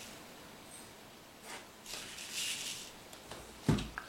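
Quiet kitchen handling sounds: faint rustling in the middle and a single soft knock near the end.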